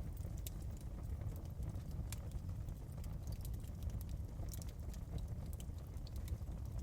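Crackling wood fire: irregular small snaps and pops scattered over a steady low rumble.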